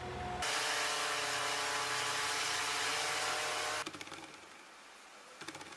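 Loud, steady rushing whir from the Land Rover Discovery Sport towing railway carriages on rails. It starts abruptly half a second in and cuts off just before four seconds, leaving quieter clicks and creaks.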